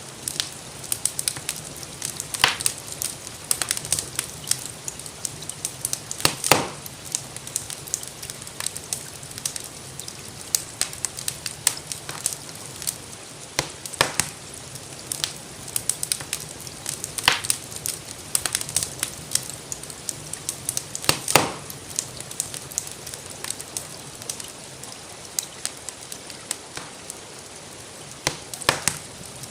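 Wood fire crackling in a fireplace: a constant run of small irregular crackles, with a sharper, louder pop every few seconds. Underneath is a steady soft hiss of rain.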